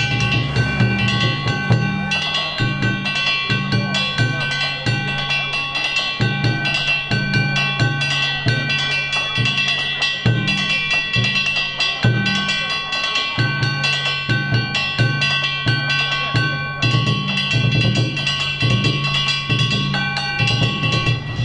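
Danjiri hayashi: taiko drums beating a steady repeating rhythm, with hand-struck gongs ringing on top.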